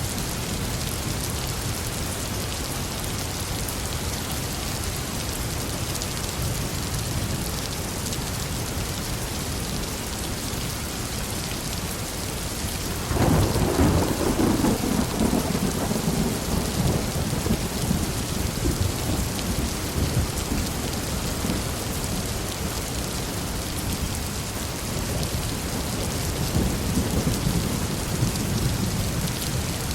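Steady heavy rain falling on a forest, with a loud clap of thunder breaking in about 13 seconds in and rolling off over several seconds, then a fainter rumble of thunder near the end.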